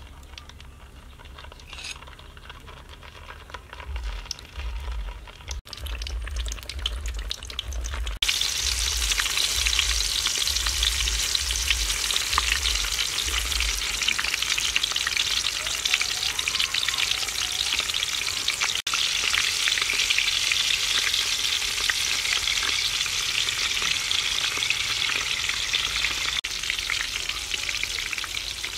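Whole pork-stuffed tomatoes frying in hot soybean oil in a steel wok: a loud, steady sizzle that starts suddenly about eight seconds in, after a quieter stretch with a low rumble.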